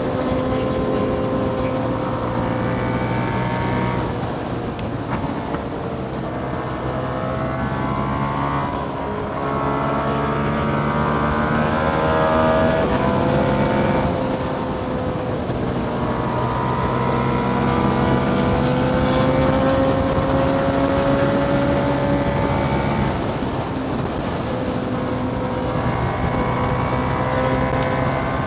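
KTM Duke 890R parallel-twin engine through a catless Austin Racing GP1R exhaust, ridden hard: the revs climb and drop again several times as the throttle is opened and closed through the gears.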